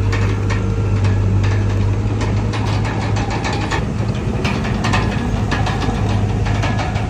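Komatsu D31PX bulldozer's diesel engine running steadily with a deep hum, under frequent irregular clicks and clanks of the machine at work.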